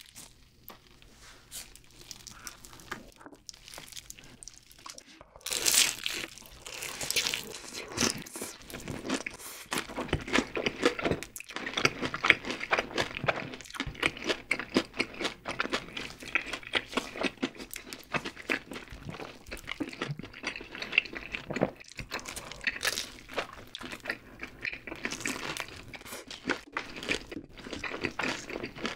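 Crispy fried chicken being bitten, torn and chewed close to the microphone: a quiet start, then dense crunching and crackling from about five seconds in.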